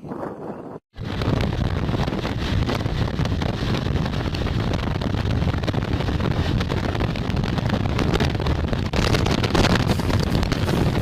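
Strong wind buffeting the microphone: a loud, rumbling rush of noise. It starts abruptly about a second in and continues unbroken, slightly louder near the end.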